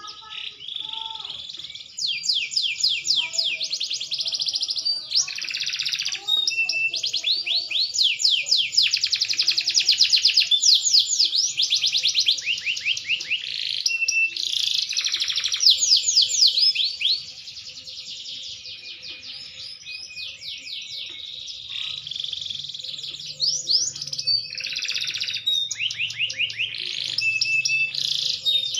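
Green domestic canary singing a long song of fast trills and rolling repeated notes, high-pitched and nearly continuous, with a softer, sparser passage about two thirds of the way through before it picks up again.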